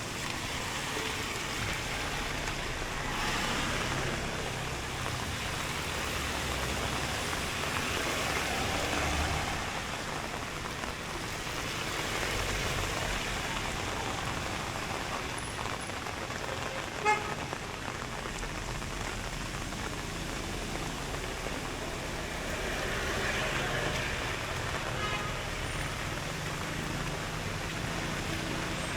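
Rainy street ambience: a steady hiss of rain with road traffic going by, swelling and fading as vehicles pass a few times, and a single sharp tap about seventeen seconds in.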